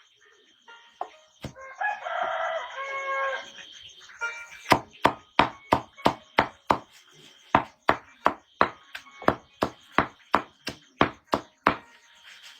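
A rooster crows once about two seconds in. From about five seconds in comes a rapid run of sharp chopping strikes, about three a second, lasting some seven seconds.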